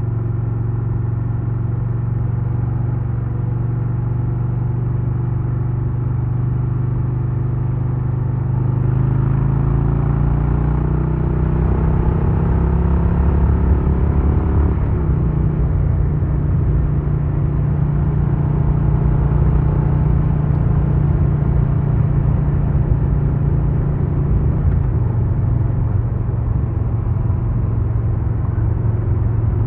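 2022 Harley-Davidson Low Rider S's Milwaukee-Eight 117 V-twin running under way. It cruises steadily, then pulls harder from about nine seconds in with its pitch rising, drops sharply at a gear change about fifteen seconds in, and holds a higher steady note before easing off near the end.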